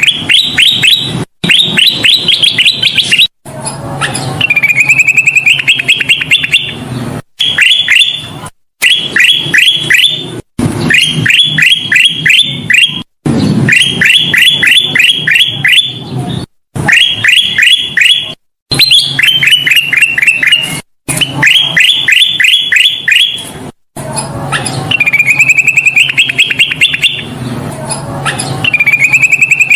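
Kutilang emas bulbul singing vigorously (gacor): fast runs of sharp, sweeping chirps, several a second, repeated over and over with a few abrupt breaks where the recording is spliced.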